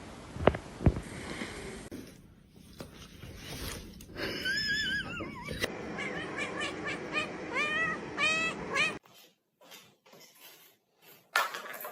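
A pet animal's short, pitched calls, repeated about twice a second over several seconds, after two sharp knocks in the first second.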